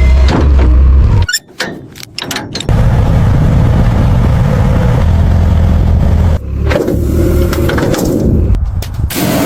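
A motor running with a loud, steady low rumble that cuts out abruptly about a second in, with a few sharp clicks in the gap. It comes back after a second or so and breaks off briefly twice more near the end.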